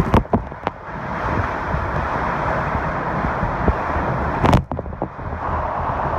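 Severe storm winds blowing in a steady rush with low rumble, with sharp buffets or knocks on the microphone several times in the first second and again about four and a half seconds in.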